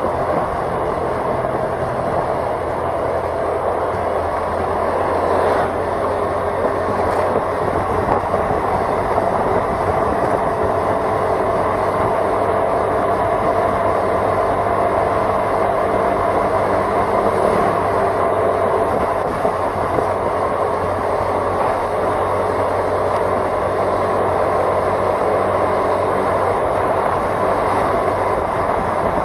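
Steady hum of a vehicle driving along a road, its engine running at a constant pace under continuous tyre and road noise.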